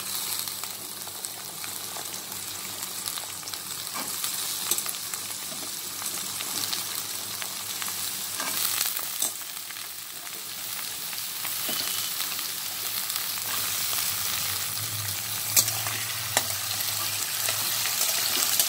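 Raw potato sticks sizzling in hot mustard oil with onions in a wok, the hiss jumping up as they go into the oil. A spatula stirs them, with a few sharp clicks and scrapes against the pan, mostly in the second half.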